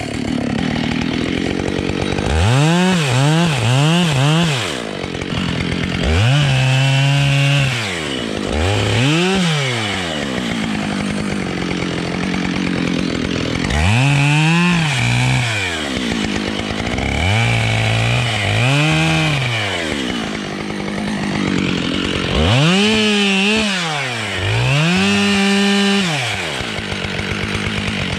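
Husqvarna 572 XPG two-stroke chainsaw revved up and down about eight times, dropping back toward idle in between: a quick run of three short blips about two seconds in, then longer revs held for a second or two, some at a lower, steady pitch as the chain bites into the wood.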